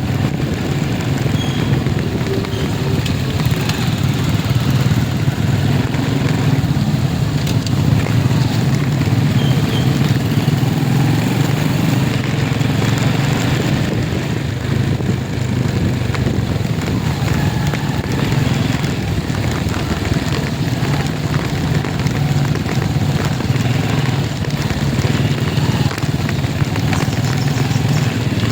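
A motor vehicle's engine running steadily, with a constant low hum and noise that holds even throughout.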